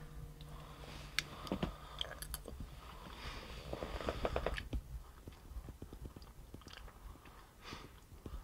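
A person eating instant pot noodles from a fork: faint chewing, with a few light clicks between about one and two and a half seconds in.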